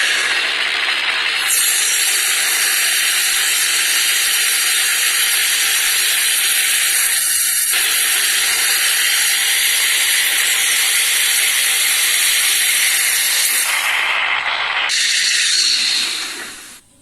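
A loud, steady hiss like escaping steam, fading and cutting off just before the end.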